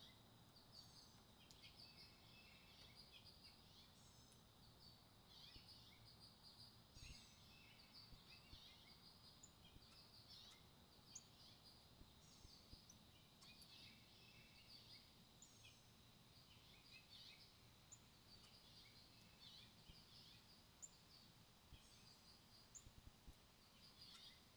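Faint, frequent short bird chirps and twittering, many calls overlapping, over a soft steady outdoor background hiss.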